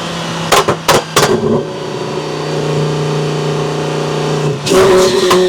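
Twin-turbo Lamborghini Huracán V10 running: a few sharp cracks in the first second, then a steady engine note at constant revs. The note changes, with more cracks, near the end.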